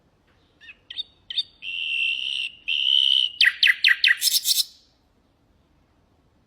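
Nightingale singing one song phrase of about four seconds. It opens with a few short notes and two held whistles, then goes into a run of quick falling notes and ends in a fast rattling trill.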